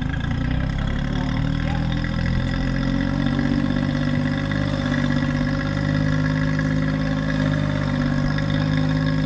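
An engine idling steadily, freshly started.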